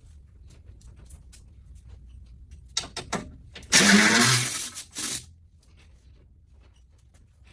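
A handheld power tool runs in two short bursts, the first about a second long and the second shorter, driving in bolts. Light clicks of parts and tools come before it.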